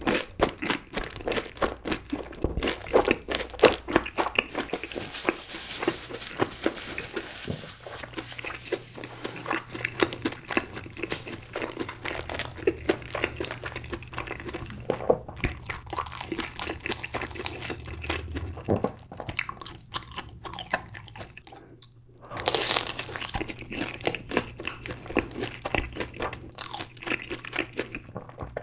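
Close-miked chewing of a batter-fried mozzarella corn dog coated in cheddar cheese sauce, its crisp crust crunching and crackling irregularly. A brief lull comes about three-quarters of the way through, then a louder spell of crunching.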